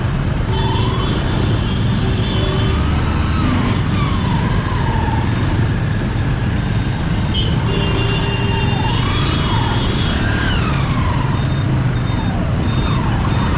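Motorcycle riding through city traffic: a steady engine rumble and wind noise, with vehicle horns honking in short steady blasts early on and again about eight seconds in. Rising and falling wailing tones come and go over it.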